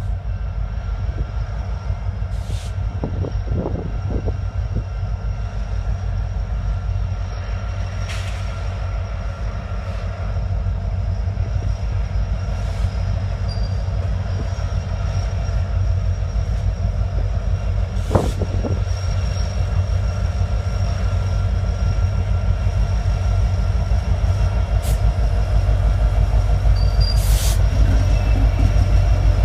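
Freight train rolling past: a steady low rumble of railcars that grows louder toward the end, with a few sharp clicks and thin, steady high-pitched tones from the wheels.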